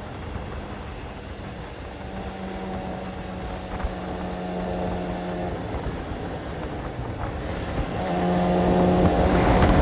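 Sports motorcycle engine running at steady revs over a rushing haze of noise. It holds an even pitch for a few seconds and grows louder near the end.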